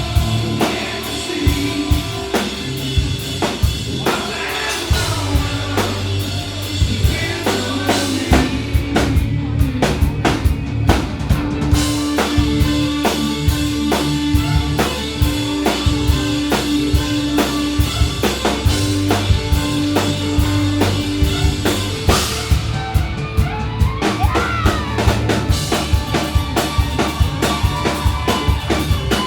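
Live band playing loud through a venue's PA, drum kit prominent with steady kick and snare beats under sustained bass and guitar.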